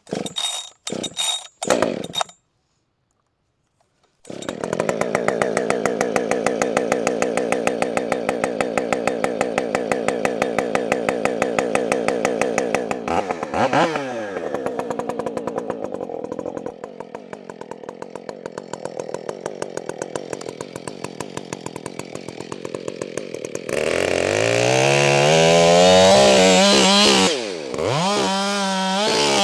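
Husqvarna 572 XP two-stroke chainsaw starting with a few short bursts, then idling steadily to warm up, with a quick throttle blip partway through. From about 24 seconds in it is revved hard, its pitch climbing and wavering.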